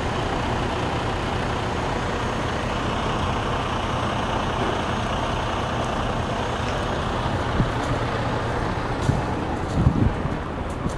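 Heavy diesel engine running steadily, with a few short knocks near the end.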